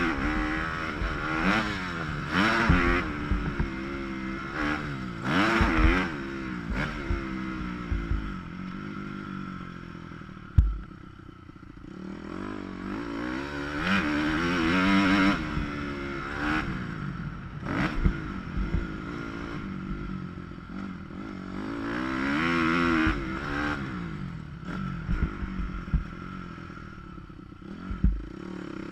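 Motocross bike engine heard from on board, revving up hard and dropping off again and again through the gears and corners, with clattering knocks from bumps and landings. The sound is muffled by the camera's waterproof housing.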